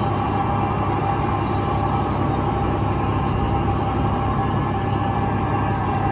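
Steady engine and road drone inside a truck cab cruising on the highway, heaviest in the low end, with a constant hum-like tone running through it.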